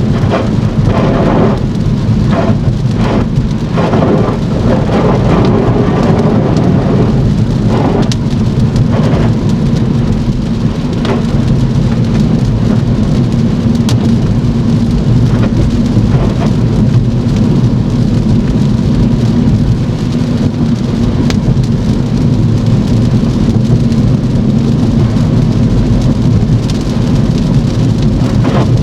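Heavy rain while driving: a steady wash of rain with a constant low road rumble underneath, and irregular swishing surges in the first several seconds.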